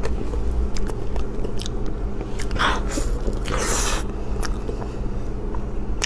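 Close-miked chewing of a soft, chilled custard cake: wet mouth clicks and smacks throughout, with two brief rustling hisses near the middle.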